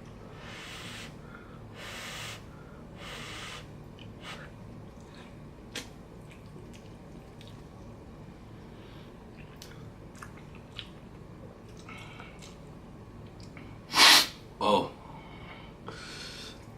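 Breathing and eating sounds of a man eating very spicy noodles: three short noisy breaths near the start and faint clicks of chewing. About 14 seconds in comes a sudden, loud, sharp burst of breath from the heat of the spice.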